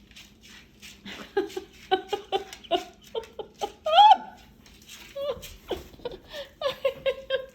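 Pet macaw vocalising in a run of short, chuckling, laugh-like calls, with one louder call about four seconds in.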